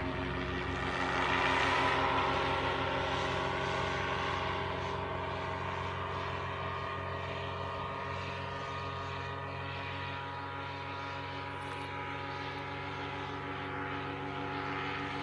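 Steady drone of a propeller aircraft's engine, holding one pitch. It is loudest about two seconds in and then eases off slightly.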